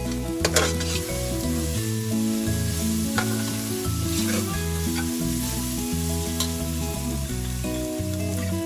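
Onions, ginger-garlic paste and curry leaves sizzling in hot oil in a pressure cooker while a steel ladle stirs them. The ladle scrapes and knocks on the pot about half a second in, around three seconds in, and again past six seconds.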